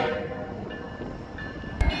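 Train horn cutting off, its sound dying away over about half a second and leaving faint train noise with a few thin high tones. A short knock comes near the end.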